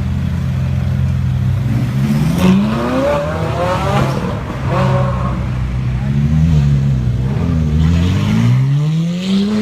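A car engine idling, then revved: a quick rise about two seconds in, short blips around three and five seconds in, and a longer climbing rev near the end.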